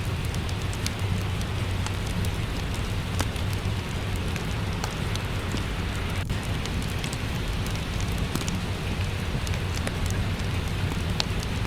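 Steady rain mixed with a crackling fireplace fire: a constant hiss of rainfall over a low rumble, with scattered sharp pops and crackles from the fire throughout.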